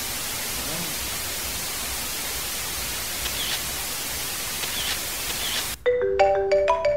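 Steady loud static hiss, which cuts off suddenly near the end as a marimba-style ringtone melody of quick, clear notes begins.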